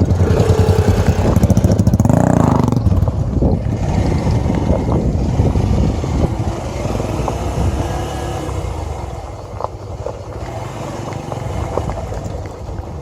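Small motorcycle engine running on the move, revving up about two seconds in, then settling to a quieter, lower pull.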